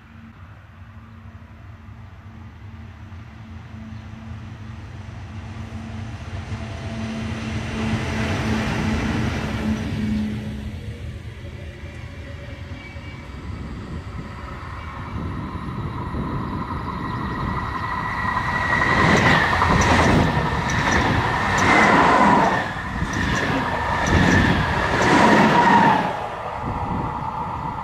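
A passenger train hauled by an SBB Re 4/4 II electric locomotive approaches and passes. At first there is a steady electric hum that grows louder. In the second half the coaches' wheels pass close with loud rhythmic clatter and a ringing tone, which dies away near the end.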